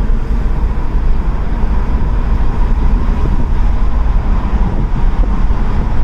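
Wind buffeting in through a car's open windows over steady engine and road noise, heard from inside the cabin. The noise is loud and even, with most of it in a low rumble.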